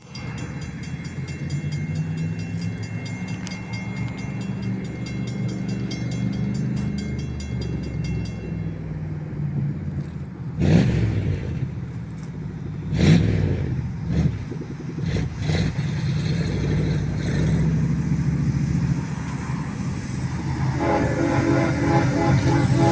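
Norfolk Southern diesel freight locomotives rumbling past, with two sudden loud surges of noise near the middle. Near the end a locomotive air horn begins sounding a steady chord, growing louder.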